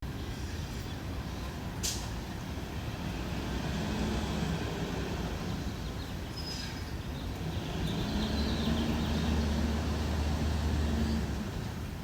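Road traffic with heavy vehicles passing: a steady low rumble with a truck's engine drone swelling about two-thirds through and fading near the end. There is a sharp click about two seconds in.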